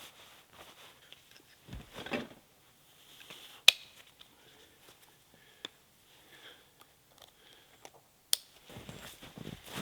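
Scattered clicks, taps and a brief rustle of camping gear being handled and packed, with two sharp clicks about three and a half and eight seconds in. Footsteps in snow start near the end.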